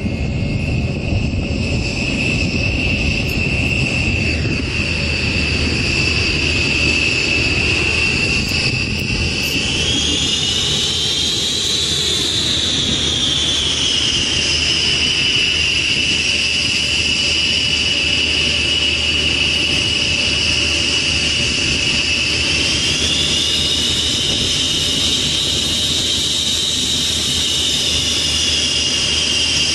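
Jet aircraft engine running with a steady rumble and a high whine. The whine rises in pitch and settles back twice, about ten seconds in and again near the end.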